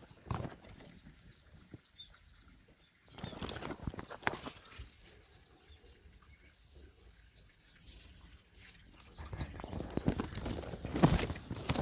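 Small cage birds fluttering their wings in flurries, loudest near the end, with short high chirps in quick runs.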